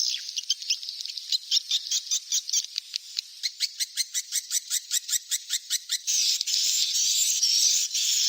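Recorded calls of edible-nest swiftlet chicks played as a lure: a fast, even run of sharp, high chirps, about five or six a second, that gives way about six seconds in to a continuous high-pitched twittering chatter.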